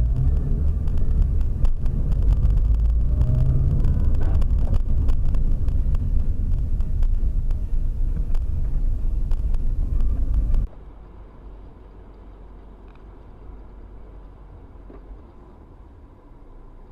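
Vehicle road and engine rumble recorded from inside a car, with many small rattles and clicks. About ten and a half seconds in it cuts off suddenly to a much quieter clip of even noise with a faint steady hum.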